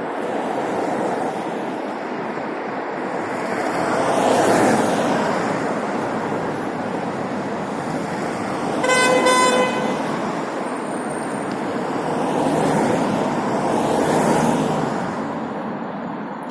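Street traffic passing, with two vehicles going by, the first about four seconds in and the second around twelve to fifteen seconds. A vehicle horn sounds one short honk, under a second long, about nine seconds in.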